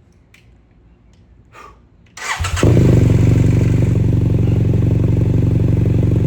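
BMW F800GS parallel-twin engine started through a new Delkevic 9-inch oval slip-on exhaust with its baffle fitted. The starter cranks a little over two seconds in, and the engine catches almost at once. It then settles into a loud, steady idle.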